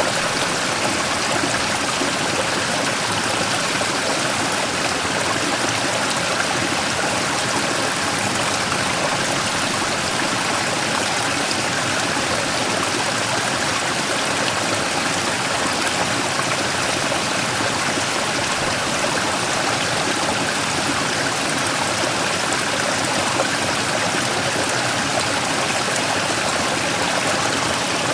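Mountain stream rushing and splashing over a large rock in a small waterfall, a steady, unchanging flow.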